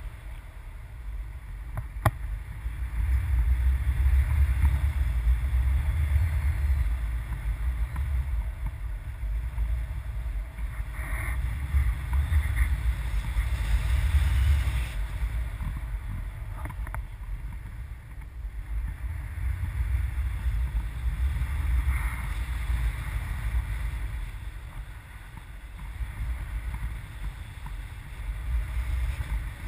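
Wind buffeting the microphone in gusts, a low rumble that rises and falls every few seconds, with a single sharp click about two seconds in.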